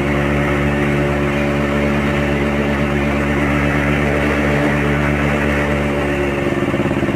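Yamaha RX Special's 115 cc two-stroke single-cylinder engine running steadily under way through an original RX King exhaust. The engine note shifts briefly near the end.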